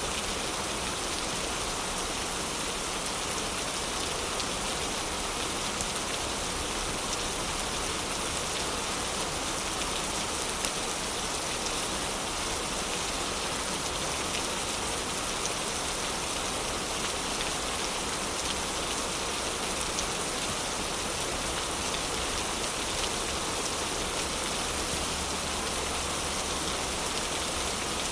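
Steady heavy rain hissing without let-up, with a few faint, sharp crackles of a fireplace fire in it, the loudest one a little over ten seconds in.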